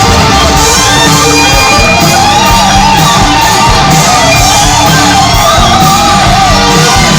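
Loud hard rock music: distorted electric guitars over a steady drum beat, with a wavering melodic lead line.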